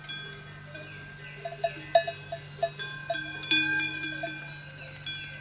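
Bells clanking irregularly, with a quick run of ringing strikes in the middle, over a steady low hum.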